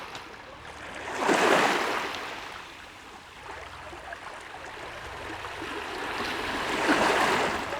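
Sea waves breaking and washing up the shore, two surges about five seconds apart, each swelling and then fading away.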